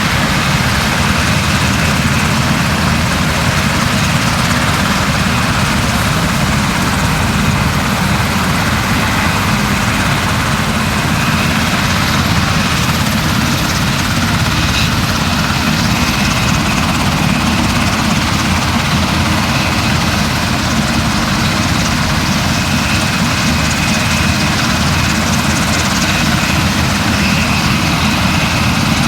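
Steady, loud engine drone that holds at one level without a break, with a faint high whine over it.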